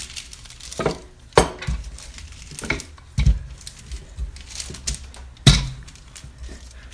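Irregular kitchen knocks and clatter as dough is rolled out on parchment paper on a countertop: a handful of sharp knocks with low thumps, the strongest about five and a half seconds in.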